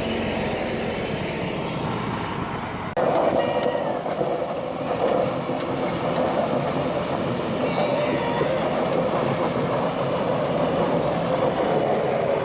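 Small lawn tractor engines running steadily under load, a dense mechanical drone; the sound jumps abruptly louder about three seconds in.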